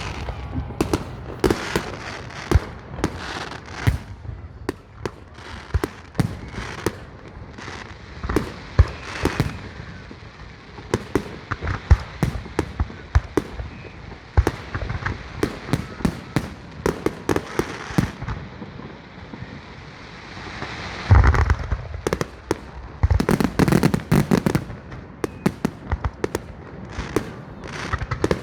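Fireworks display: a continuous barrage of shells bursting with sharp bangs and crackling, the bangs coming thick and loudest in a cluster about three quarters of the way through.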